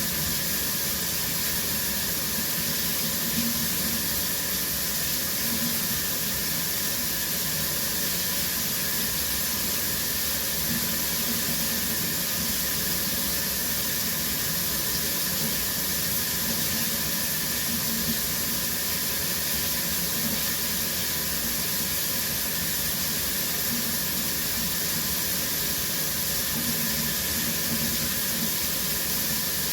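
Shower running: a steady hiss of water spraying and falling onto the floor.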